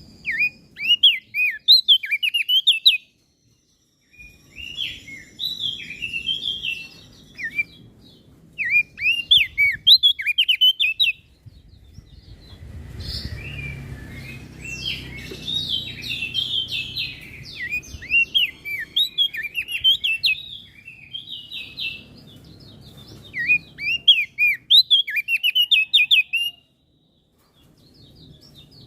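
Small songbird song in repeated bursts of quick, sharp chirping notes. A denser run of song comes in the middle over a faint low rumble. The song is broken by a short dead-silent gap a few seconds in and another near the end, the cuts of a spliced recording.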